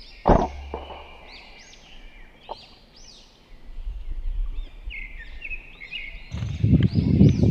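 Small birds chirping over and over in quick arched calls, several at once. A single sharp crack comes about a third of a second in, and loud rustling starts near the end.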